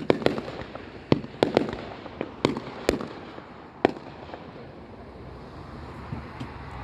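Aerial fireworks going off: a quick run of about ten sharp bangs and pops in the first four seconds, some echoing, then a quieter stretch with only a few faint pops.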